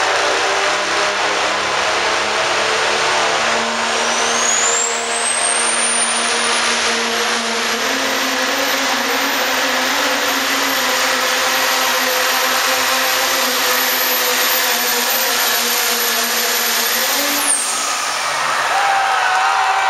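Turbocharged diesel pickup truck running hard under load in a truck pull. A high turbo whine climbs for a few seconds, holds, then cuts off sharply near the end.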